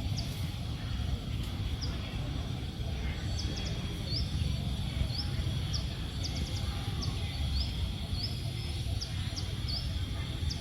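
Outdoor ambience with a steady low rumble, over which a bird gives short, high, rising chirps about once or twice a second.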